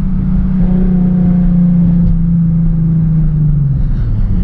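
Straight-piped Nissan 370Z's V6 exhaust holding a steady, loud drone at constant revs; about three and a half seconds in the note drops as the revs fall.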